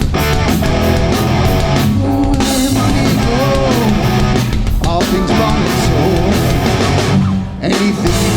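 Hardcore punk band playing live, with distorted electric guitars, bass and drums, and a short break about three quarters of the way through before the band comes back in.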